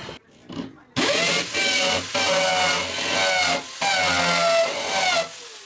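Electric drill running in three bursts, its motor whining up to speed about a second in and stopping briefly twice, while backing a screw out of a wall anchor.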